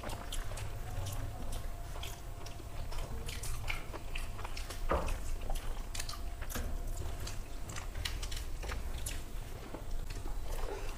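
People chewing and eating rice and curry by hand, a steady run of small mouth clicks and smacks.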